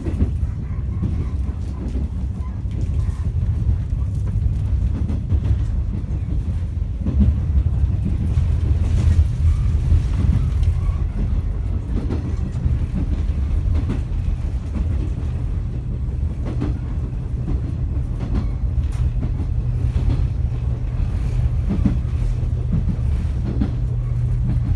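Inside a JNR 455-series express electric train car running along the line: a steady low rumble from the running gear, with scattered faint clicks from the wheels on the track. A steady hum comes in near the end.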